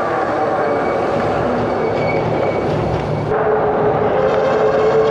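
Wind rush and road noise while riding a dual-motor e-bike. A steady humming tone joins about three seconds in.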